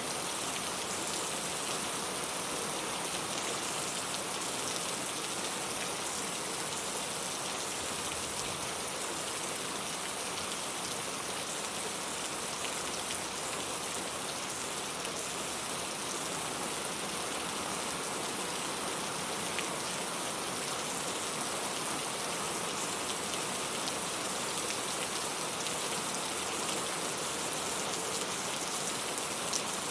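Steady rain falling on a hard surface, an even hiss with many fine drop patters and no lulls.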